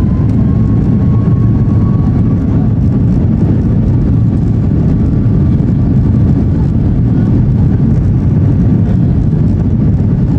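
Steady, loud cabin rumble of a Boeing 737 MAX 8-200's CFM LEAP-1B engines and airflow under power, heard from inside the passenger cabin, as during the takeoff run or climb.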